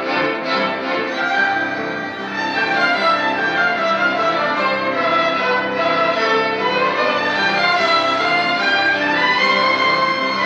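Ensemble of violins playing in unison and parts, with short repeated bowed strokes at first, then smoother melodic lines that slide up and down.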